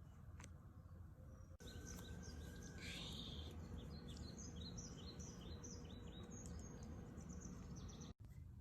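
Faint bird chirping: a quick run of short, high chirps over a low steady hum, with the sound dropping out briefly twice.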